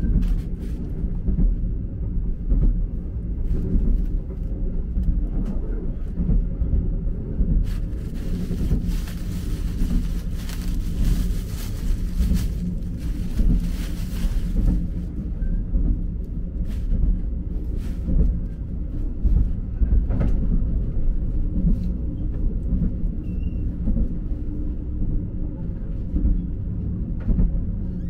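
Steady low rumble of a train running on the rails, heard from inside a sleeper cabin. Plastic wrapping crinkles and rustles over it as bedding is unwrapped, loudest from about 8 to 15 seconds in.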